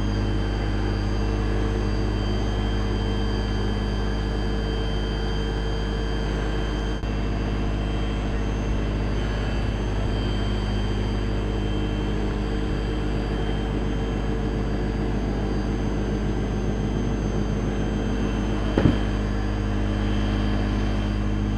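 Mobile document-shredding truck's machinery running with a steady mechanical hum, one short knock about nineteen seconds in.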